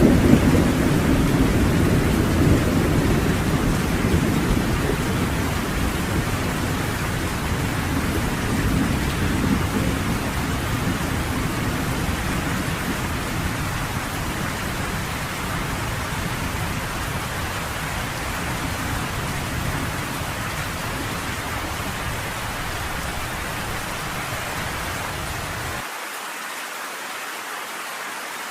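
Steady rain falling in a thunderstorm, with a low rumble of thunder that fades away over the first several seconds. Near the end the deep low end drops out suddenly, leaving only the hiss of the rain.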